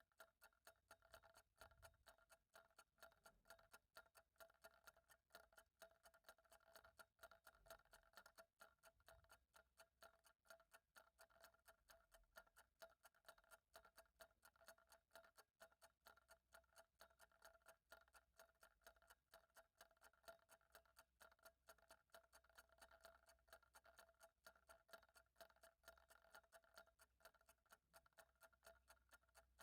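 Faint clock ticking, a steady, regular tick several times a second, over a faint steady tone.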